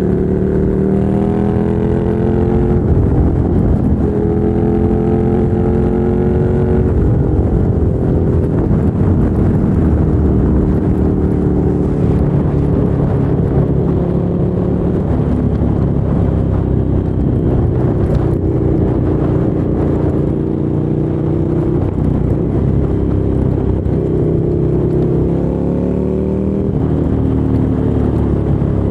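Ducati Monster 797's air-cooled L-twin running through a LeoVince LV-10 aftermarket exhaust, climbing in pitch through the gears over the first several seconds. It then settles into a steadier drone with wind noise, and climbs again near the end.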